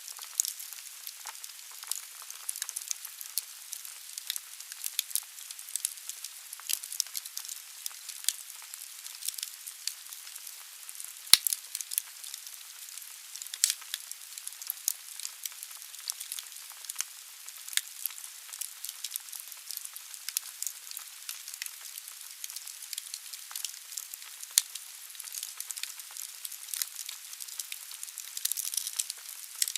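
Wood fire burning in a fireplace: a steady hiss with frequent sharp crackles and pops from the logs, one loud crack about a third of the way in.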